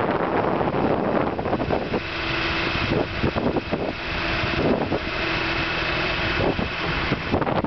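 Skid steer engine running, with a steady whine over it from about two seconds in and wind buffeting the microphone.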